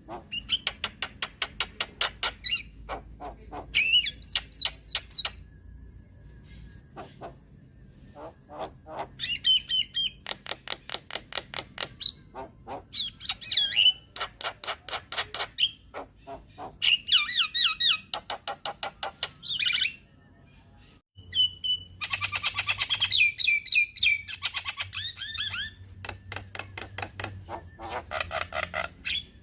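Javan myna (jalak kebo) singing: bursts a few seconds long of fast, sharp clicking and rattling notes, mixed with harsh squawks and whistled phrases.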